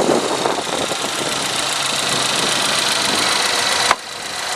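2013 Chevy Equinox's 2.4 litre four-cylinder engine idling steadily with a faint high whine, getting slightly louder. A sharp click comes about four seconds in.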